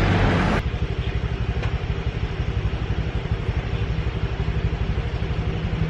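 A small engine idling with a fast, even pulse. Just before this, about half a second in, a louder, noisier street sound cuts off abruptly.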